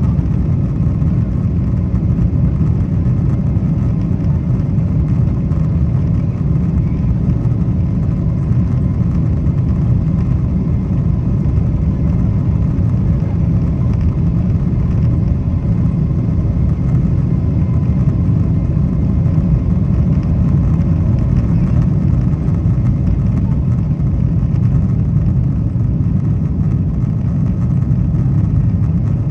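Steady low roar of a Boeing 777-200ER's engines and airflow, heard inside the economy cabin during the climb after takeoff.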